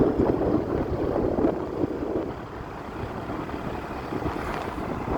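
Road noise of a moving vehicle with wind buffeting the microphone, louder for the first two seconds and then easing off.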